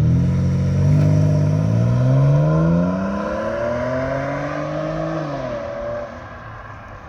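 Ford Edge 3.5 V6 with a valved exhaust accelerating hard from a standstill. The exhaust note rises in three climbs with brief dips between them as it shifts up, then drops and fades as the car pulls away.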